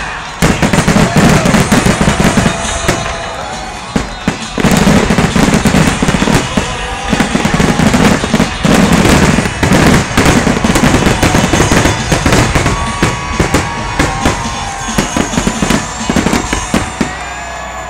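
Aerial fireworks going off in rapid succession: a dense run of booming shell bursts and crackles with hardly a pause, picked up by a phone's microphone.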